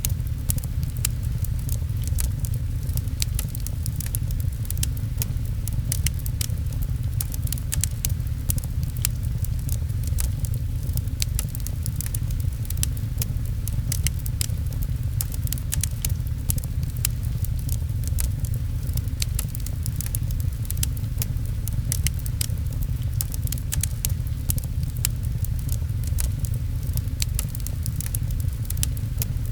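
Steady rain mixed with a wood fire crackling: frequent sharp, irregular snaps over a deep, even rumble.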